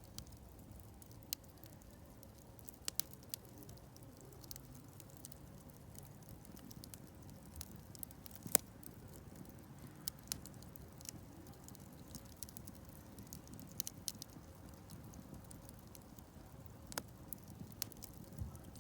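Campfire burning, the wood crackling with scattered sharp pops over a low steady rumble of the flames; the loudest pop comes about halfway through.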